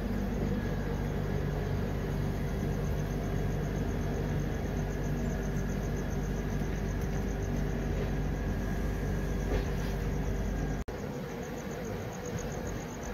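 Passenger train running at speed at night: a steady rumble of the coach's wheels and bogies on the track. About eleven seconds in, the sound drops out for an instant and comes back with a lighter low rumble.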